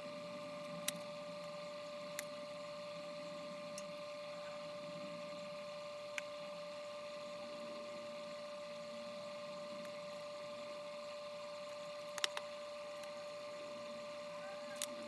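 A steady, faint, high-pitched electrical whine, with a few scattered sharp clicks and taps of hands working with food and a pan.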